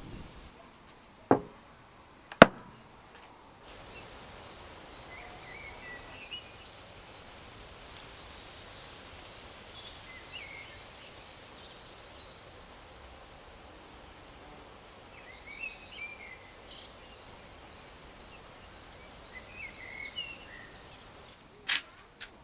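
Insects trilling in repeated high-pitched pulsed trains a second or two long, with scattered short bird chirps. Sharp knocks sound twice in the first few seconds, the second being the loudest sound, and twice more near the end.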